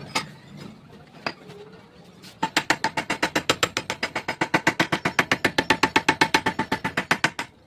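Two single sharp clicks, then a couple of seconds in a long, fast, even run of ringing clicks, about nine a second, that stops near the end.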